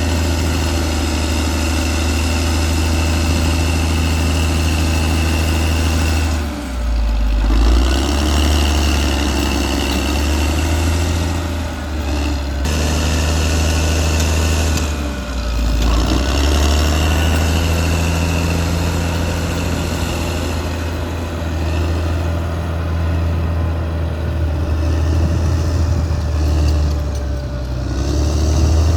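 Caterpillar D6R XL bulldozer's diesel engine running steadily, its low pitch dropping briefly twice, about seven and fifteen seconds in, then picking back up.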